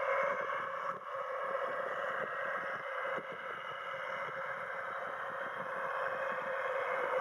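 New Holland T7060 tractor's six-cylinder diesel engine running steadily under load, pulling a six-furrow plough through the soil.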